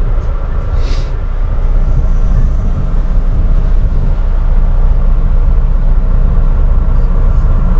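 Semi truck's diesel engine running steadily, a loud continuous low rumble with a faint hum above it, and a light click about a second in.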